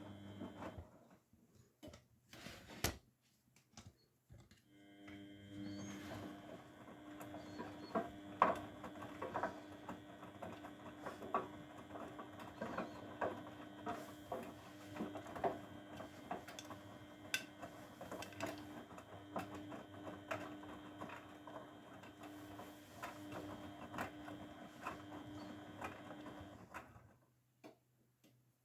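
Grundig washing machine in its wash phase: after a pause with a few clicks, the drum motor starts about five seconds in. It turns the drum with a steady hum and irregular knocks of tumbling laundry, then stops abruptly near the end.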